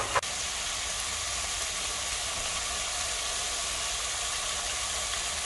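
Salmon fillet sizzling in a hot grill pan: a steady, even frying hiss, with two short clicks right at the start.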